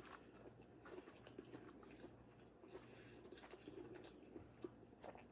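Faint chewing: soft, irregular little clicks and smacks of food being eaten, very quiet overall.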